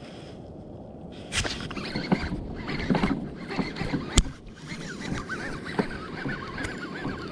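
Knocks and clatter on a fishing kayak, a few sharp ones standing out, over a steady low rush of wind and water. From about five seconds in, wavering animal calls run on.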